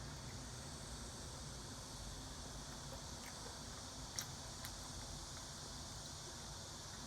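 Steady low background hiss and hum with a few faint, sharp clicks about three to five seconds in.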